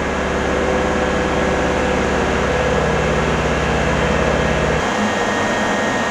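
Electric train standing at an underground station platform, its onboard equipment giving a steady low hum over a noisy background; the low hum cuts off suddenly about five seconds in.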